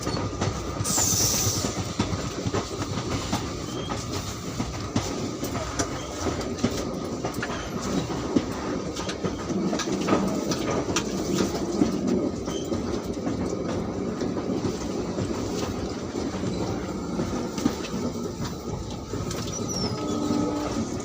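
Passenger train running, a steady rumble with the irregular clickety-clack of wheels over rail joints, and a brief high falling squeak about a second in.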